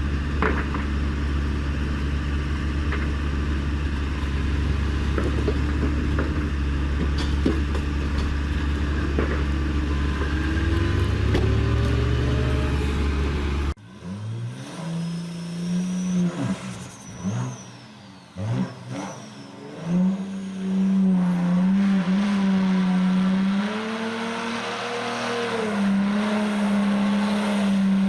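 Vehicle engine running steadily with a deep hum, its pitch rising shortly before an abrupt cut about halfway through. After the cut, a different engine is heard revving, its pitch rising and falling unevenly.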